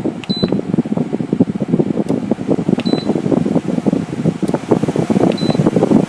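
GE window air conditioner's fan running with a rapid, fluttering rush of air. Faint short high pips are heard three times, about two and a half seconds apart.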